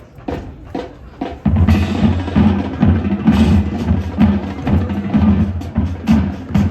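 High school marching band starting its show: a few sharp drum strikes count off, then about a second and a half in the full band comes in loud, with a driving bass drum beat.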